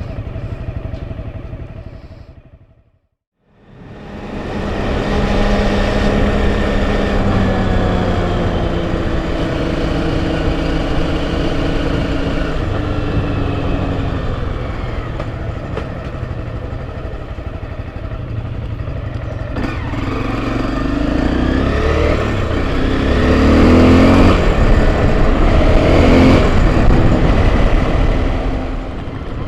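Off-road enduro motorcycle engine running while riding a trail, its pitch rising and falling with the throttle. The sound fades out to silence about three seconds in, then fades back in. It is loudest and changes pitch most often near the end.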